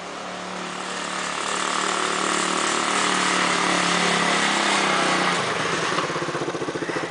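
1974 Honda Trail 90's small single-cylinder four-stroke engine running on throttle, growing louder over the first few seconds, then dropping to a pulsing idle about five seconds in.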